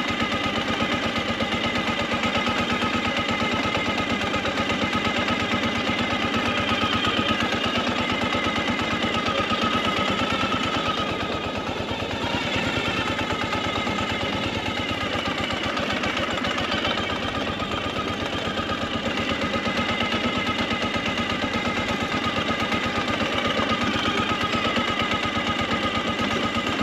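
Motorcycle engine running at low speed, its exhaust beating in rapid, steady pulses.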